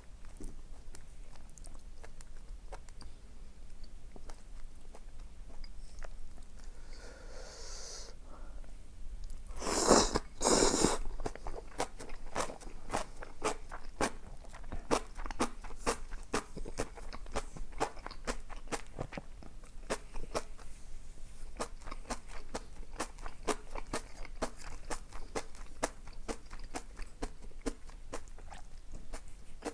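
Eating sounds: chewing, with many sharp mouth clicks, and a loud crunchy bite about ten seconds in.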